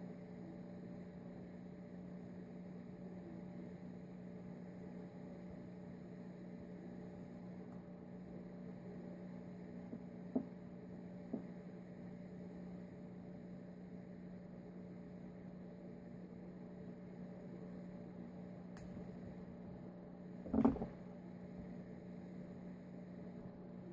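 A steady low electrical-sounding hum, with a few short knocks: two small ones about ten seconds in and a louder one about twenty seconds in.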